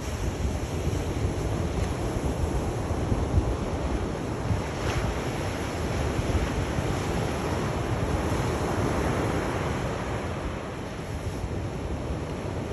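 Sea surf: waves washing in as a continuous rush with a deep low rumble. A wave swells up about two-thirds of the way through.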